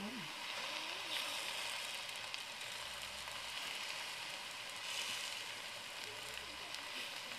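Steady sizzling of fried onion, banana stem and masala paste in a kadai as raw chicken pieces are laid on top.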